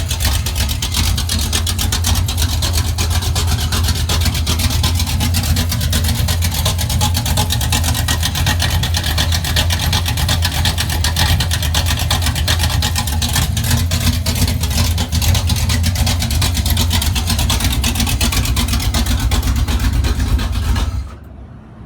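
Small-block Chevy 350 V8, bored .060 over with a Comp Cams XE268 cam, idling steadily through open Hedman long-tube headers with no muffler: a loud, rapid exhaust rumble. The sound cuts off abruptly near the end.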